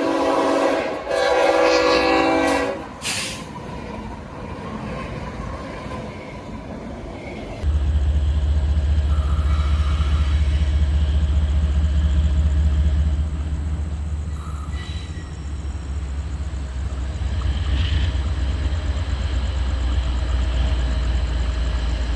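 Train horn sounding two blasts, a chord of several notes. About eight seconds in, a steady deep rumble of a train running begins abruptly and carries on.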